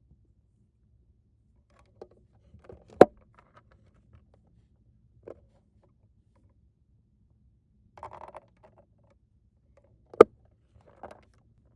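Small plastic toy pieces being handled: scattered light taps, a short rattle, and two sharp clicks about three seconds and ten seconds in.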